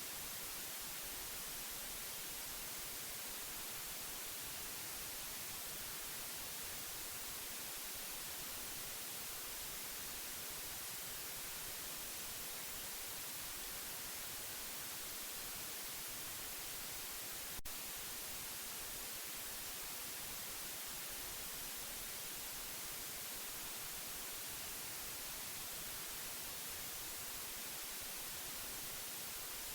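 Steady white noise: an even, unbroken hiss, brightest in the treble, played as a baby sleep aid. A single brief click sounds once, a little past the middle.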